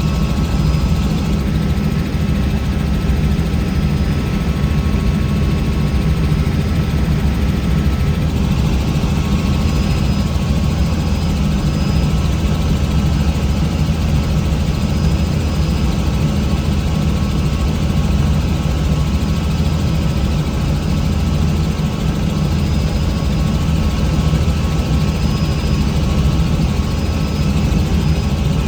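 Helicopter running steadily: a continuous, loud rotor and engine drone, heaviest in its low end, with no change in pitch or power.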